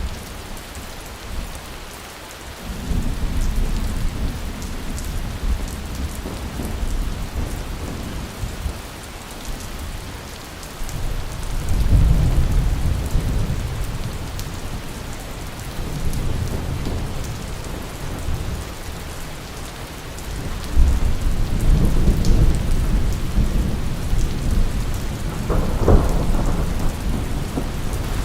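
Steady heavy rain with rolls of low thunder rumbling several times. A sharper thunderclap comes near the end.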